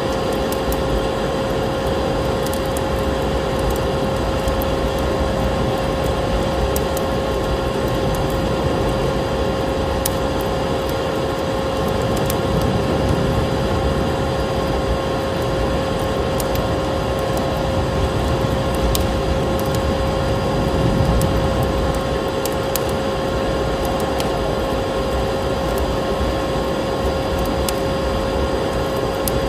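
Vacuum cleaner motor running steadily, a constant droning whine over a dense rush of air, mixed with the crackle and snap of a wood fire in a fireplace. The drone swells slightly about 13 and 21 seconds in.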